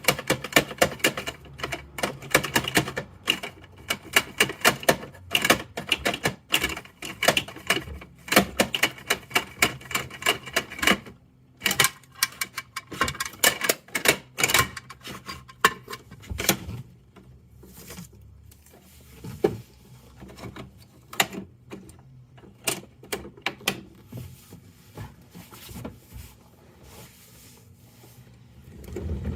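Rapid plastic clicking and clattering from a toy garbage truck being worked by hand. The clicks come thick and fast for the first half, then thin out to scattered, quieter clicks.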